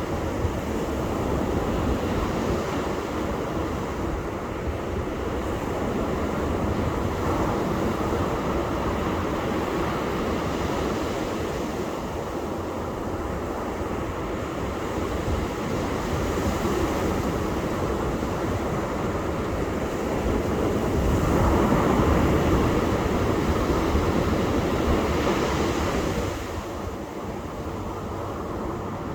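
Ocean surf washing on a beach: a steady rush of breaking waves that swells and ebbs, with one louder surge about three quarters of the way through that falls away sharply.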